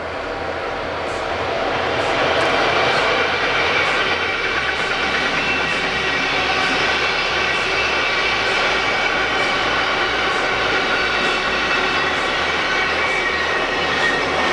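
Freight train hauled by a DB Class 189 (Siemens ES64F4) electric locomotive passing close by, its loaded freight wagons rolling steadily past. The noise swells over the first two seconds and then stays loud and even, with steady high-pitched tones over it.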